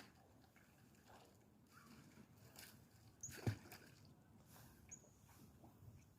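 Near silence with faint scattered ticks and one short, sharp knock about halfway through.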